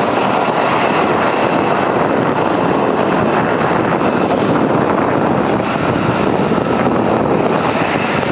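Military jet aircraft engines, a loud, steady rush of noise with a thin, steady whine on top.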